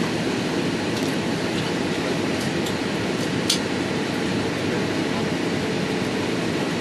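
Steady cabin noise inside an Airbus A319-132 airliner, the even rush of engines and airflow heard from a rear window seat. A few faint ticks sound over it, the clearest about halfway through.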